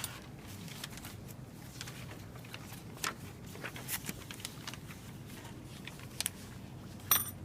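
Scattered light clicks and rustles of handling over a low, steady room hum, with a sharper double click near the end.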